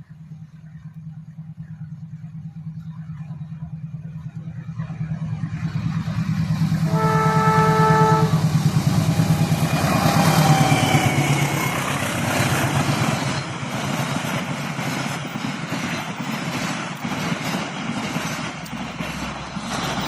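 Diesel locomotive approaching with a steady, growing engine drone, sounding its horn once briefly about seven seconds in. The train then passes close, with loud wheel-on-rail noise and repeated clacks of wheels over rail joints.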